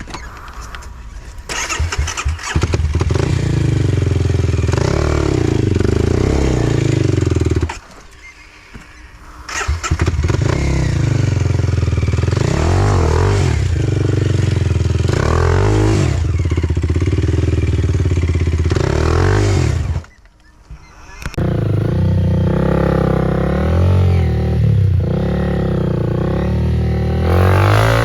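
Enduro dirt bike engine running loud, its revs rising and falling as the throttle is worked. Twice, about eight and twenty seconds in, it drops away for a second or so, then picks up again.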